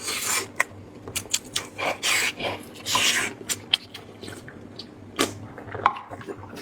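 Close-miked eating sounds from a mouth working soft braised lamb brain: wet smacking clicks and a few short slurping, sucking bursts.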